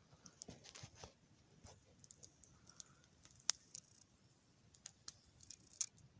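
Faint, scattered clicks and taps of a phone being handled and its screen tapped, the sharpest about three and a half seconds in.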